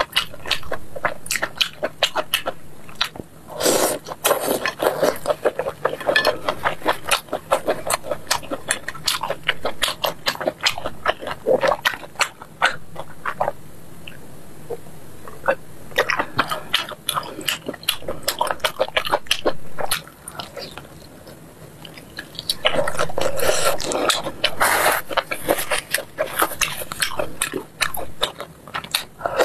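Close-miked chewing and smacking of chewy grilled sweet-potato starch sheets (tiaopi) in spicy sauce, dense with wet, sticky mouth clicks. There is a short drink from a bottle about halfway through.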